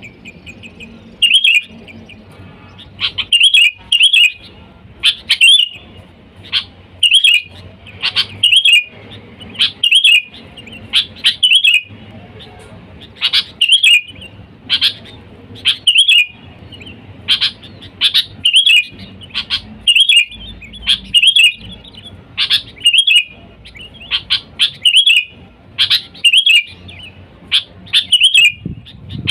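Sooty-headed bulbul (kutilang) giving its basic call over and over: short, bright chirping phrases, often in pairs, about every one to two seconds. It is the chatty call used as a lure to draw wild bulbuls in.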